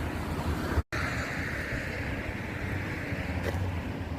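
Steady traffic noise from a nearby motorway, the hiss of tyres swelling and fading as cars pass, over a low rumble of wind. The sound drops out completely for a split second just under a second in.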